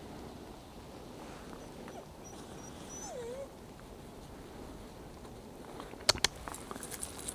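A dog gives one short whimper about three seconds in, its pitch falling then lifting slightly. About six seconds in come two sharp clicks, the loudest sounds here, over a soft steady outdoor background.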